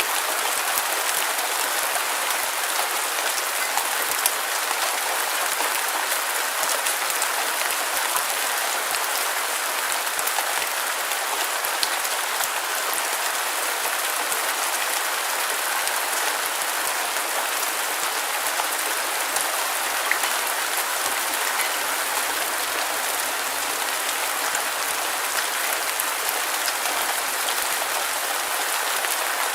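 Steady rain falling, an even hiss thick with fine drop patter, with no thunder or low rumble.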